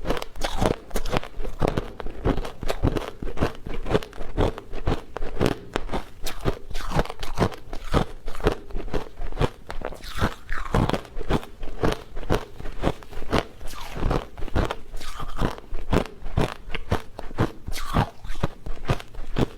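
Close-up chewing and crunching of food, a quick run of crisp bites and crackles that goes on without a break.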